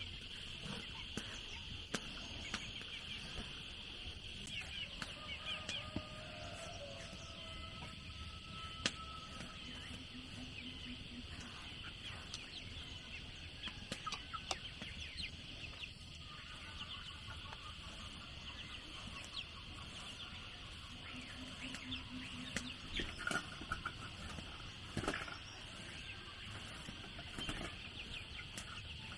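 Chickens clucking now and then over a steady, high-pitched drone of crickets or cicadas, with a few sharp clicks or knocks.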